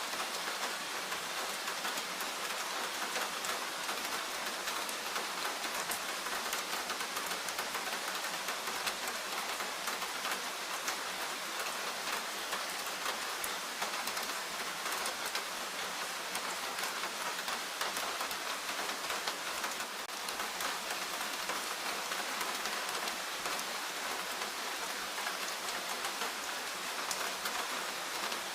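Steady rain falling in a forest, an even hiss of many drops pattering with fine ticks from individual drops.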